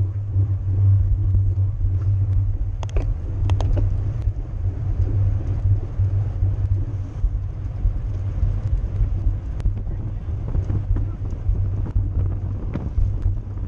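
Wind buffeting and road rumble on a camera riding on a racing bicycle, a steady low rumble, with a few sharp clicks about three seconds in.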